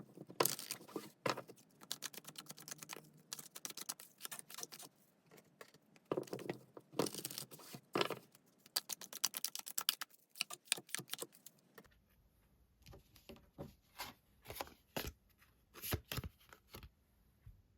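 Tarot cards being shuffled and handled: dense runs of quick clicks and papery rustles. From about twelve seconds in these give way to sparser, separate clicks.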